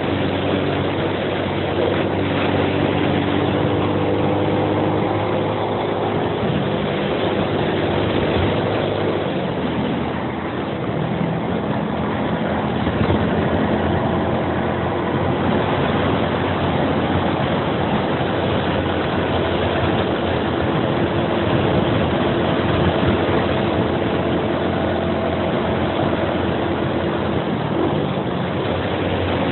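Suzuki Axelo 125's single-cylinder four-stroke engine running under way, its note shifting now and then and easing briefly about ten seconds in, mixed with wind and road rush on the handlebar-mounted microphone.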